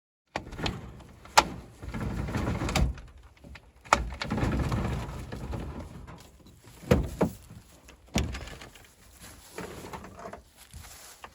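Handling noises: several sharp knocks and clacks, about five in all, with rustling and low thuds between them.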